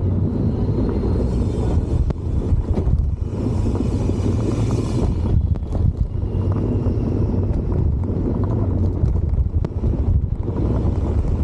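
Steady low rumble of a vehicle in motion, with wind buffeting the microphone.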